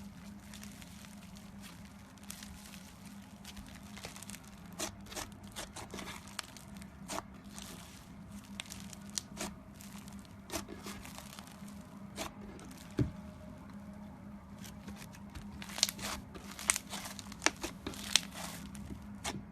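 Slime being squeezed and worked by hand, giving off a run of sharp crackling pops and clicks that come thicker and louder near the end, over a low steady hum.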